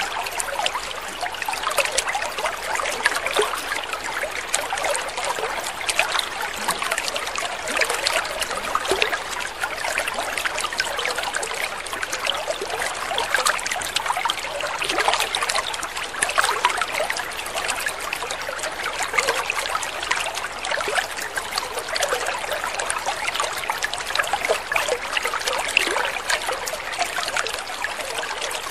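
Water trickling and splashing steadily, a continuous light babble of many small drops.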